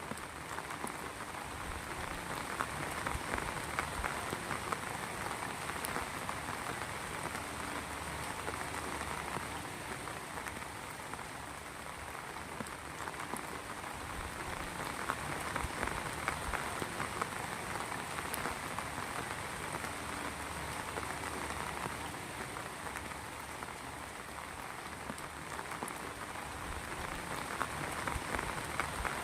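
Heavy rain falling steadily, with a dense patter of drops that swells and eases a little every few seconds.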